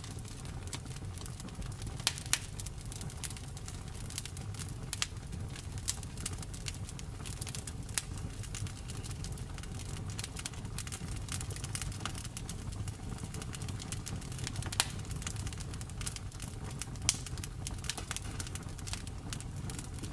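Wood fire in a fireplace crackling, with irregular sharp pops and snaps over a steady low rumble of the flames; a few pops stand out louder.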